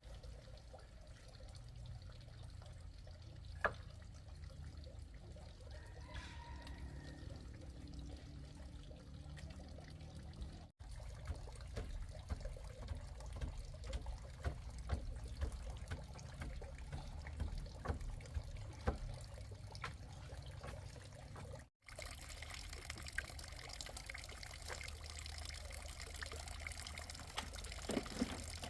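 Water pouring and trickling steadily, with scattered small knocks. The sound cuts out briefly twice.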